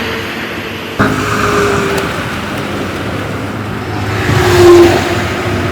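Heavy vehicle engine running, cutting in abruptly about a second in and swelling to its loudest point with a steady tone shortly before the end.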